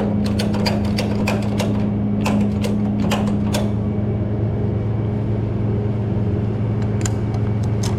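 A ratchet strap being cranked tight, a quick irregular run of clicks that stops about three and a half seconds in, with a couple more clicks near the end. Under it the tow truck's engine hums steadily at idle.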